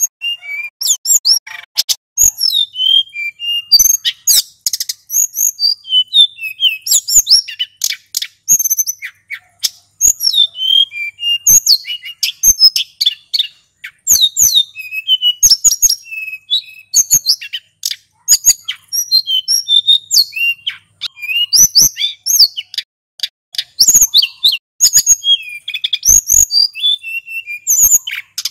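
Male sulingan gunung songbird singing nonstop, a rapid rolling run of high, quick chirps, trills and whistles broken by sharp clicks and short pauses between phrases.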